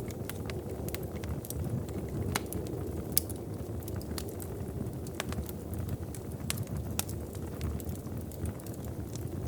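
Fireplace fire crackling: scattered sharp pops and snaps, irregular and frequent, over a steady low rumble.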